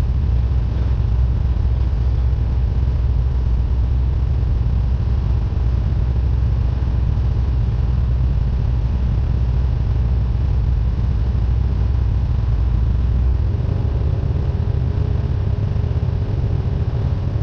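Cessna 172N's four-cylinder Lycoming engine and propeller running with a steady drone; the tone shifts slightly about three-quarters of the way through.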